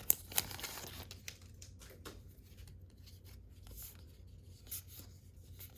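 Baseball cards being handled and flipped through by hand: light rubbing and sliding of card stock with a few sharp ticks, the loudest just after the start.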